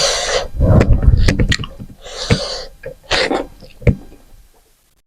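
Close-miked eating sounds: chewing with wet lip smacks and mouth clicks, and two short breathy slurps, the second about two seconds in.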